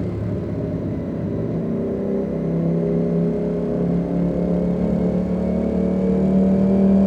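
Ducati Panigale V4 S's V4 engine pulling under acceleration, its pitch climbing slowly and the sound getting louder toward the end.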